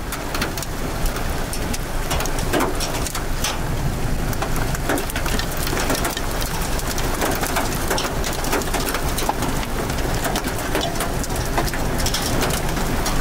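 Heavy rain and wind from a tornado-producing supercell: a steady rush with many sharp raindrop hits close to the microphone over a low wind rumble.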